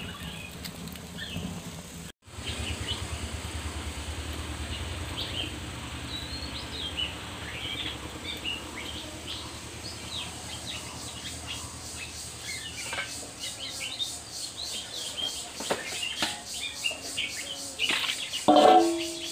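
Small birds chirping with short, scattered calls over the low steady sound of a wood fire burning in a clay stove, with a few crackles. A brief louder sound comes near the end.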